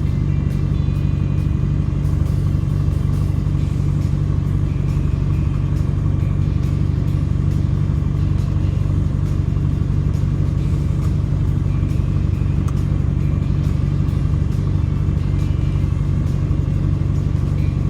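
An engine running steadily with an unbroken low drone.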